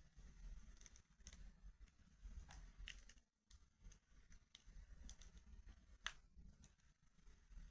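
Faint crackling of a wood fire in a fireplace: scattered small snaps and pops over a low rumble, with one sharper pop about six seconds in.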